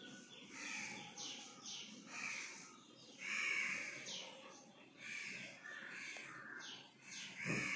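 Repeated harsh bird calls, about one a second.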